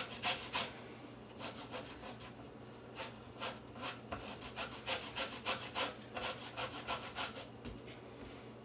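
An orange being zested on a grater, the peel rasping across the blades in quick repeated strokes. There are a few strokes at first, then a fast run from about three seconds in.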